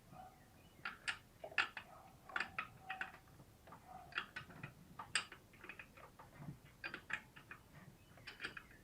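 Irregular metallic clicks and taps of a wrench being worked on a hard-to-reach bolt, a few per second, with a faint squeak-like tone in the first few seconds.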